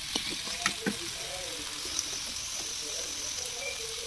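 Diced potatoes sizzling in hot oil in a kadai, a steady quiet hiss, with a few sharp clicks of a steel spoon against the pan in the first second as they are stirred.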